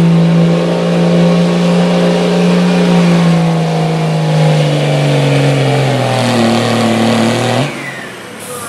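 Pulling truck's engine, likely a street diesel pickup, running at full throttle as it drags the sled down the track. Its pitch slowly sinks as the sled loads it down, then drops away sharply near the end as the throttle is let off.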